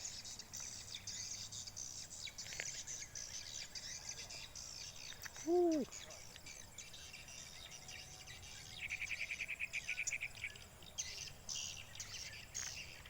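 A flock of swiftlets twittering with many thin, high chirps, with a rapid run of about a dozen clicks a second lasting a second and a half, around two-thirds of the way in. A brief low rising-and-falling tone sounds about halfway.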